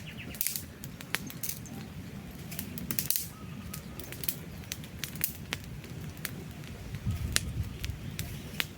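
Wood campfire crackling, with irregular sharp snaps and pops over a low, steady rumble of flames. The loudest pop comes about seven seconds in.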